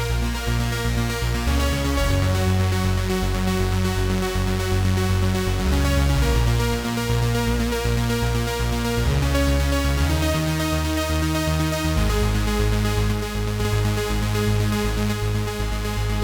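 Cherry Audio P10 software polyphonic synthesizer playing a preset: sustained chords over a deep bass, moving to a new chord about 1.5, 6, 9 and 12 seconds in.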